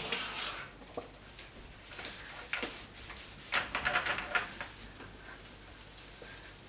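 Household items being handled during cleaning: a few separate knocks, then a rattling clatter for about a second near the middle.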